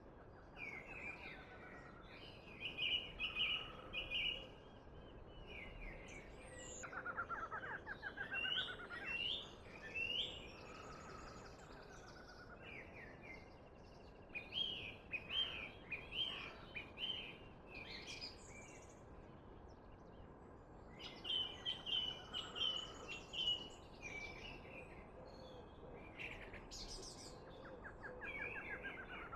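Several songbirds singing and calling in short repeated phrases, with a fast trill about seven seconds in and again near the end, over a faint steady hiss.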